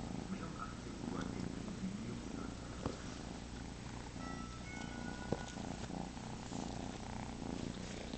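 Kitten purring steadily and close up, a continuous pulsing rumble, with two brief clicks about three and five seconds in.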